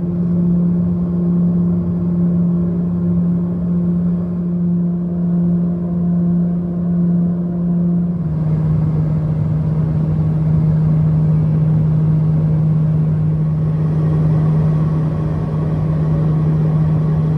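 Steady drone of a small twin-turboprop airliner's engines and propellers heard from inside the cabin, a single low hum over a rushing noise. About eight seconds in the hum drops slightly in pitch and the rushing grows louder, a change in engine power.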